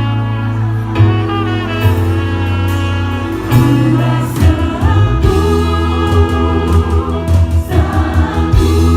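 Gospel choir singing with a band: sustained chords over a heavy bass, with drum hits.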